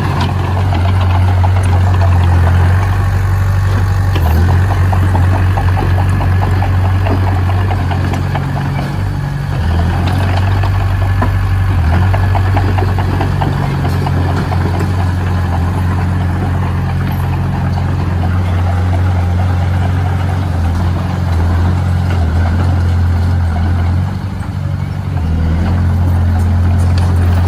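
Engine of a heavy construction machine running steadily with a strong low hum, dipping briefly twice.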